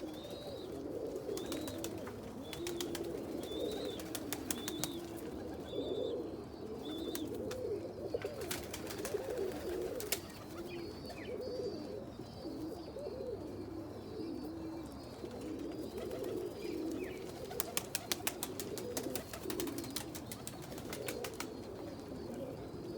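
Many domestic pigeons cooing continuously in a loft, their coos overlapping, with several bursts of rapid sharp clicks and a few faint high chirps.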